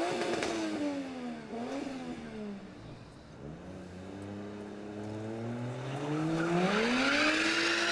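A car engine revved hard: a few quick blips of the throttle in the first couple of seconds, a drop back to low revs, then a long steady climb to high revs that are held and get louder near the end.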